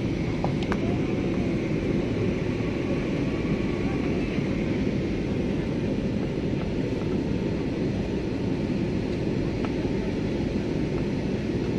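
Steady, even drone of a passenger aeroplane's engines and airflow in flight, heard from inside the cabin, mostly low in pitch.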